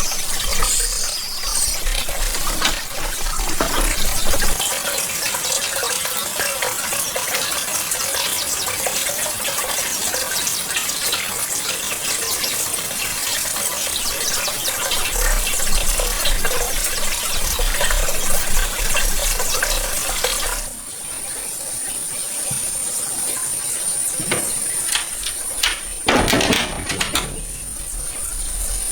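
Pond water splashing and sloshing as hands work through the water and mud. About two-thirds of the way through the splashing stops, leaving a quieter background with a steady high, thin tone and a couple of brief splashes near the end.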